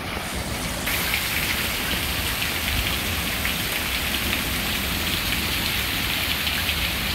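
Thunderstorm downpour: a steady hiss of rain on pavement with a fine crackling patter of drops, getting louder about a second in.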